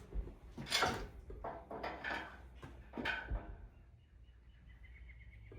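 Metal knocks and clanks from an engine being lowered on a shop hoist, a handful of separate hits over the first three seconds or so. Near the end comes a faint, thin squeak.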